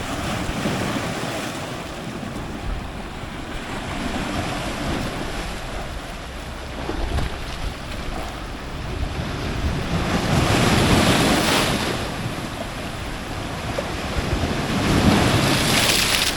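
Ocean surf breaking on rocks, a continuous rush of water that swells as waves come in, loudest about ten seconds in and again near the end, with wind buffeting the microphone.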